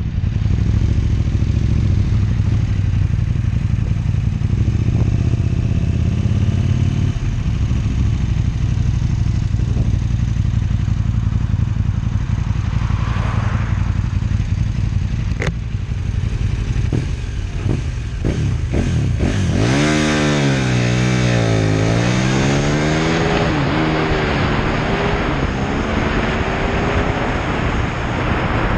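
KTM 1290 Super Duke R's big V-twin idling steadily, blipped briefly a few times, then revved hard about twenty seconds in as the bike accelerates, the engine pitch sweeping up and down. A rush of wind noise builds as it gains speed.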